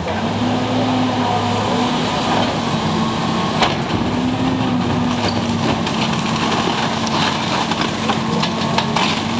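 Engine of a heavy demolition machine running steadily, its pitch rising briefly several times as it works, with scattered knocks and cracks of the building being broken up, the sharpest about three and a half seconds in.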